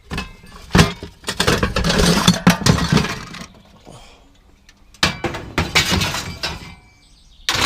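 Loose scrap metal clanking and clattering as the piled load is pulled on and shifted. There are two spells of clatter, then a single sharp clank near the end.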